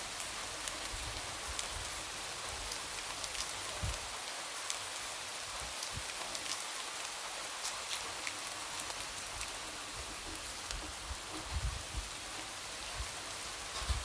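Light rain falling steadily and tapping against a window: a constant hiss with scattered individual drop ticks and a few soft low thuds.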